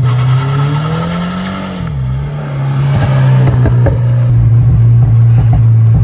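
Subaru BRZ's flat-four boxer engine accelerating hard past, its pitch climbing for about two seconds and then dropping sharply as the throttle comes off. A few sharp exhaust pops follow, the crackle the car's backfire tune is set to give, and then the engine holds a steady note.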